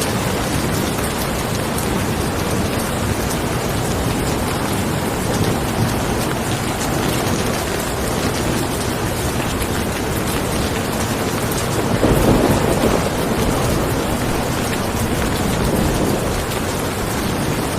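Steady heavy rain falling, with a low rumble of thunder swelling about twelve seconds in.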